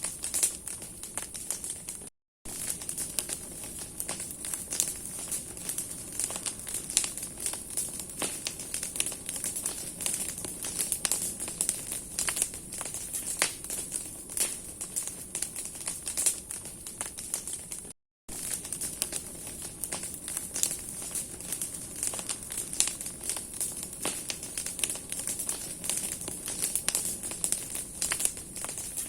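Large bonfire of burning branches and firewood crackling, with dense irregular pops and snaps over a steady hiss. The sound cuts out completely for a moment twice, about two seconds in and again about eighteen seconds in.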